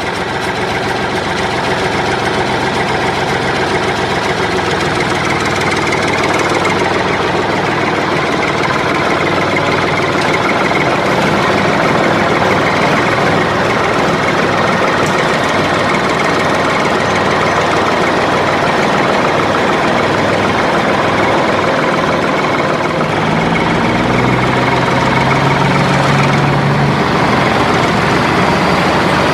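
Vehicle engine running steadily, its pitch stepping up about three-quarters of the way through.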